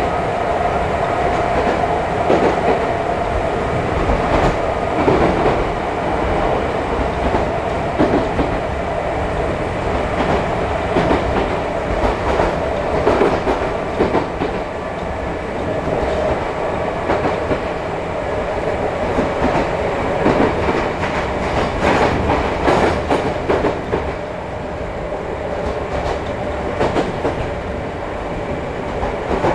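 Running sound heard inside a Chichibu Railway 5000 series resistance-controlled electric train (ex-Toei Mita Line 6000) at speed: wheels clicking over rail joints, with a steady whine that drifts slightly lower.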